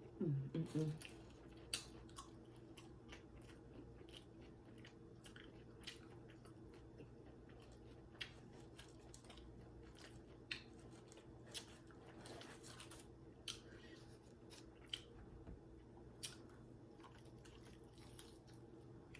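Close-up chewing of fried chicken wings and fries: sparse, soft mouth clicks and crunches, about one a second, over a faint steady hum. A short voiced sound near the start.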